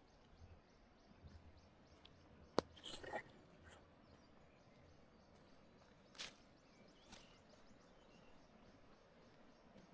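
Near silence in the open air, broken by a few faint clicks and rustles. The loudest is a single sharp click about two and a half seconds in, followed by a brief rustle, and a smaller click comes about six seconds in.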